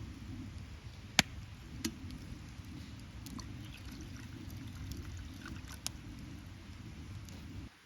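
Wood campfire burning with a steady low rush and a few sharp crackling pops, the loudest about a second in; the sound stops abruptly near the end.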